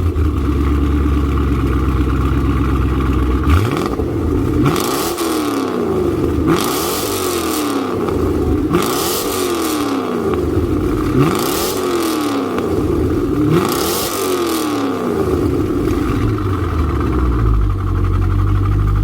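Chevrolet Corvette C5's V8 with a modified, louder exhaust idling, then revved about six times in quick blips, each rising sharply and falling back, before settling to idle again near the end.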